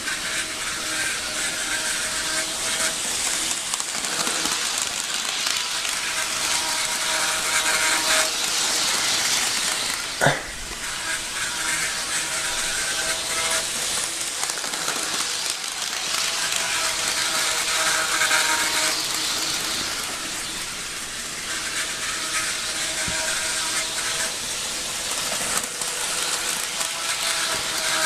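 HO scale model locomotive running on a layout: its electric motor whining and wheels rolling on the metal rails with a steady hiss. The whine swells and fades every few seconds, and a single sharp click comes about ten seconds in.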